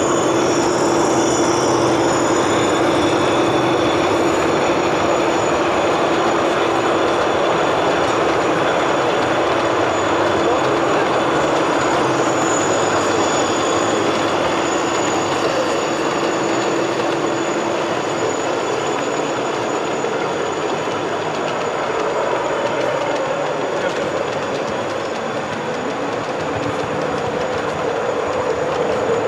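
O gauge model locomotive running on the layout track: a steady running noise with a held hum that fades about halfway through, and a higher hum that comes in near the end.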